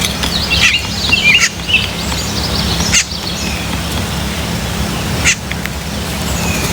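Wild birds chirping in a quick run of short, curving notes during the first two seconds, with two sharp clicks later on, over a steady low hum.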